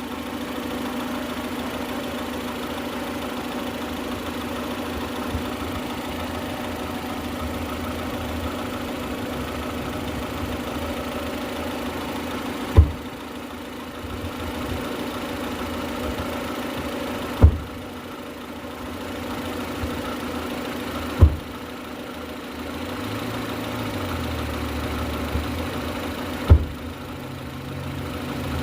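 2003 Honda Civic four-cylinder engine idling steadily while its cooling system is bled of air, with four sharp, loud slams spread a few seconds apart: the car door being slammed to shake air bubbles out of the coolant.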